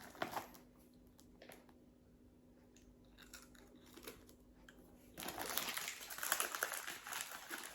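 A crunchy curry-leaf (karapincha) biscuit being bitten into and chewed: a dense crackling crunch that starts about five seconds in, after a few faint clicks.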